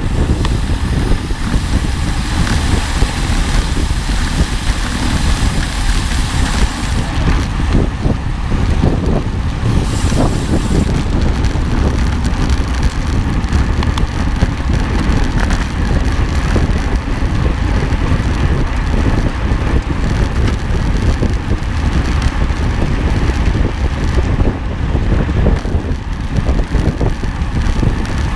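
Steady low rumble with wind noise on the microphone, continuous and without clear changes.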